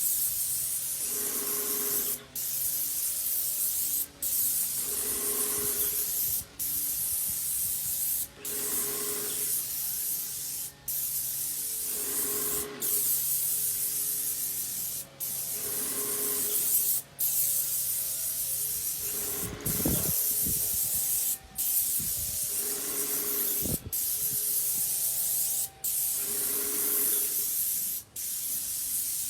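Paint spray gun hissing steadily in repeated passes, cutting off briefly about every two seconds as the trigger is released between strokes.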